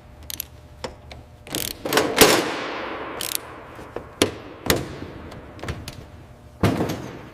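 A series of irregular metallic clanks and knocks, the loudest about two seconds in, several trailing off in a short ring.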